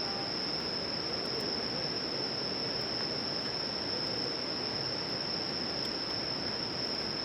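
Crickets trilling in one steady, unbroken high-pitched note over an even hiss, with a few faint clicks.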